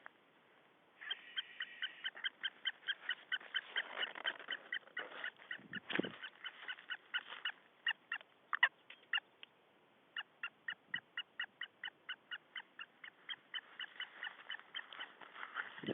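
A bird calling in a fast series of short, sharp notes, about four or five a second, breaking off briefly near the middle and starting again. A low bump about six seconds in.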